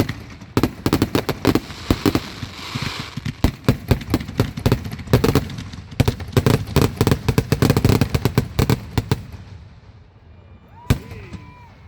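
Fireworks going off in a rapid barrage of sharp bangs, several a second, thinning out about nine seconds in, with one last bang near the end.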